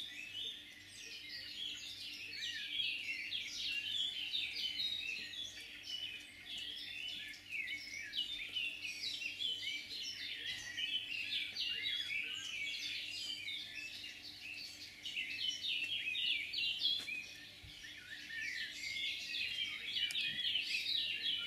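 Many small birds chirping together in a dense, continuous chatter of short, overlapping chirps, easing briefly about eighteen seconds in.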